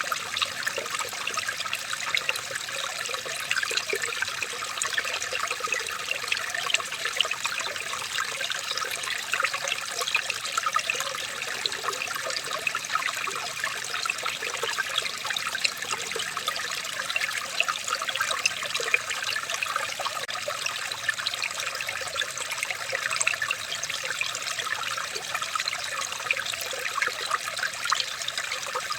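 Running water trickling steadily, a constant splashing hiss full of small droplet sounds, like a small stream.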